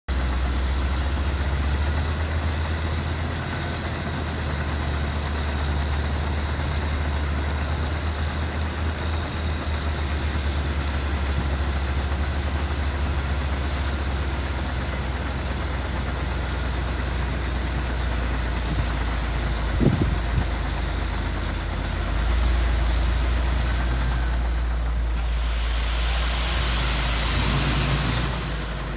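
Dump truck engine running with a steady low rumble and a knock or two about two-thirds of the way through. Near the end a loud hiss of air lasts about three seconds.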